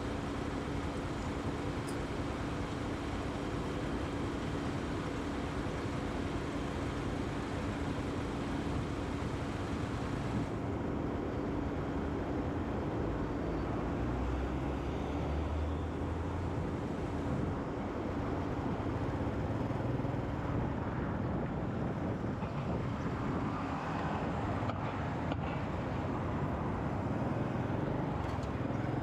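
Motorcycle riding through city traffic: steady engine hum and road noise with surrounding traffic. The high hiss softens about ten seconds in.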